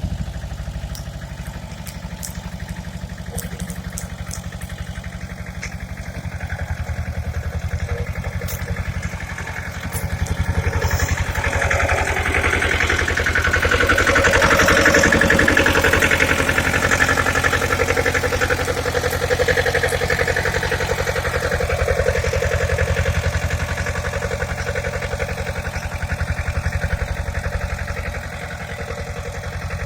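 Pasquali tractor's engine running steadily, growing louder from about ten seconds in and easing back down over the last few seconds.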